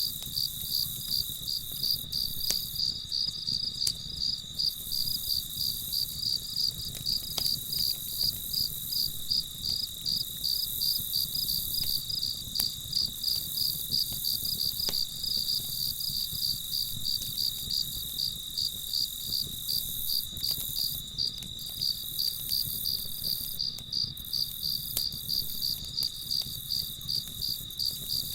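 Crickets chirping in an even rhythm, about two to three chirps a second, over a steady high insect trill. Beneath them is a low rumbling hiss with a few faint clicks, fitting a crackling campfire.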